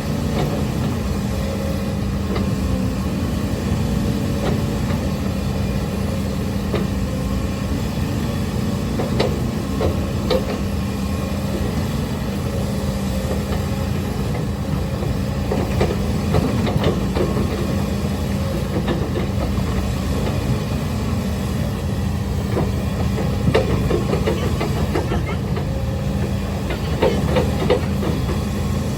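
Hidromek HMK230LC excavator's diesel engine running steadily while it digs, with occasional short knocks and clanks from the working machine.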